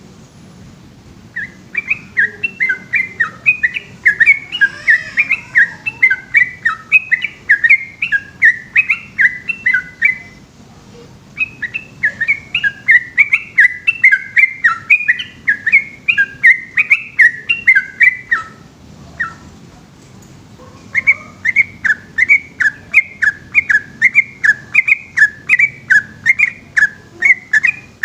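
A bulbul singing long, rapid runs of loud, sharply bending whistled notes, about three a second, in three long bursts with short pauses between them, over a low steady hum.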